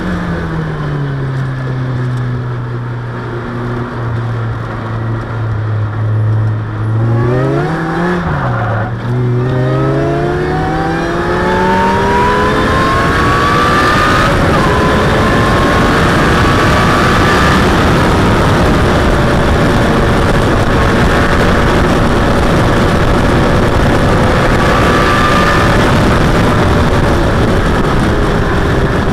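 Supercharged Ariel Atom's four-cylinder engine on track: it runs off the throttle with a falling note for several seconds, gives a brief throttle blip about eight seconds in, then accelerates with rising pitch, shifting up once about halfway. From about twelve seconds on, a loud steady wind rush sits over the engine as the car runs at high speed.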